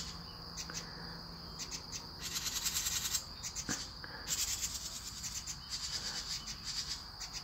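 Insects chirring: a steady high drone with repeated second-long bursts of rapid, pulsing high-pitched trills.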